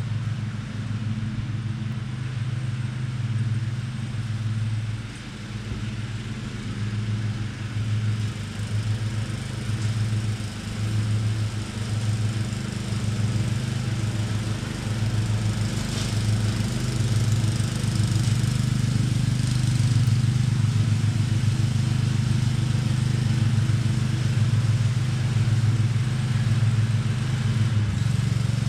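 A steady low motor hum that wavers in level, growing somewhat louder about halfway through and shifting in pitch just before the end.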